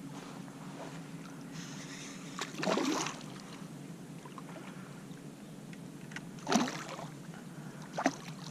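Water splashing around a kayak: three short splashes, the longest about three seconds in and two more near six and a half and eight seconds, over a steady low hum.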